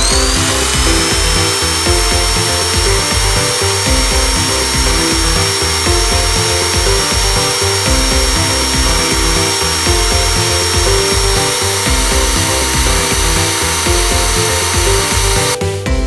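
Vacuum cleaner motor starting up with a rising whine, then running steady with a rushing airflow hiss, and switching off abruptly near the end. Background music plays underneath.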